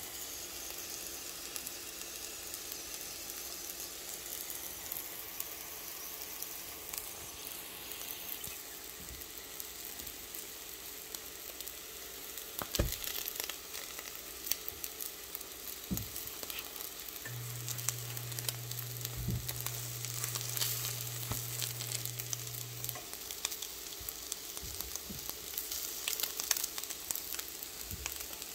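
Egg omelettes and an egg-coated slice of bread sizzling in a nonstick frying pan, a steady frying hiss with light crackle. A few sharp clicks of the spatula against the pan.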